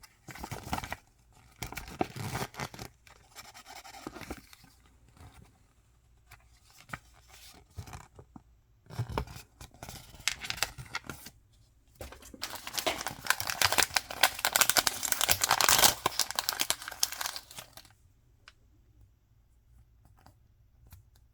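Toy packaging being torn open and crinkled by hand: scattered rustles and rips at first, then a long, loud spell of tearing and crinkling in the second half that stops short of the end.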